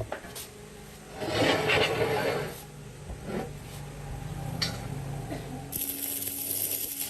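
Workshop handwork noises: a loud scraping rub about a second in, a few clicks and knocks, then a steady high hiss near the end.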